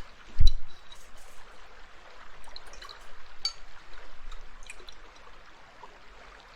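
Faint liquid sounds and small clinks of medicine being handled in a bowl, with a low thump on the microphone about half a second in.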